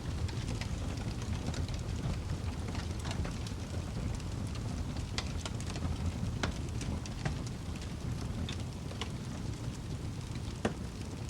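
Wood fire burning with a steady low rumble and frequent sharp crackles and pops, one of the louder pops near the end.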